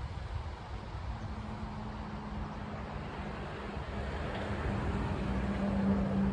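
Honeybees flying around a hive entrance: a steady buzzing hum that grows louder over the last few seconds, over a low rumble of wind on the microphone.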